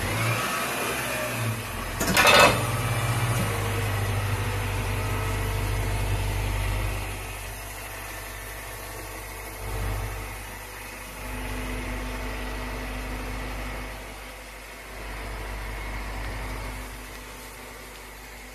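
2018 Toyota Camry 2.5 Hybrid's 2.5-litre four-cylinder engine running steadily through an aftermarket single-canister muffler with left and right outlets, with the engine kept on rather than switching to electric drive. There is a loud sharp sound about two seconds in, the engine note settles lower about seven seconds in, and there is a short rise about ten seconds in.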